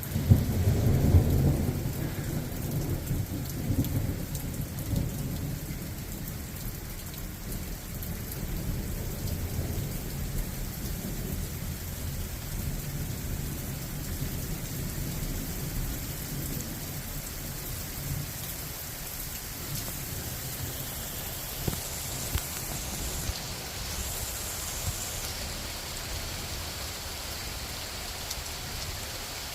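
Steady rain falling, with a roll of thunder that is loudest in the first couple of seconds and rumbles away over the next fifteen or so seconds.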